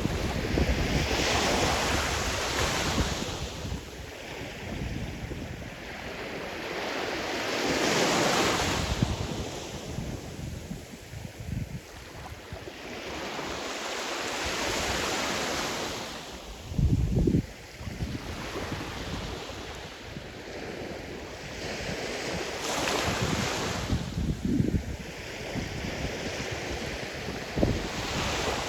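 Sea surf: waves breaking and washing up the shore in slow surges, about one every six to seven seconds. Wind buffets the microphone now and then with short low rumbles.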